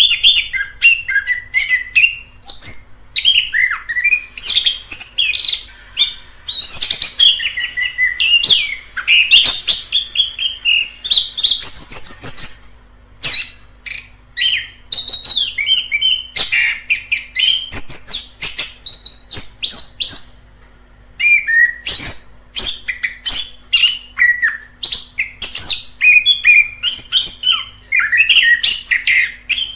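Orange-headed thrush singing a long, varied song of rapid whistled phrases, with brief pauses about 13 and 20 seconds in.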